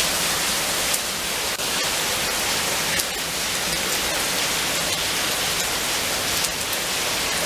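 Heavy rain pouring down on pavement: a steady, even hiss with a few faint drop ticks.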